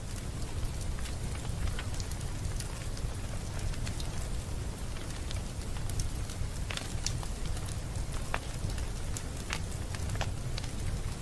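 Fireplace fire crackling: scattered sharp pops and snaps at irregular moments over a steady low rumble.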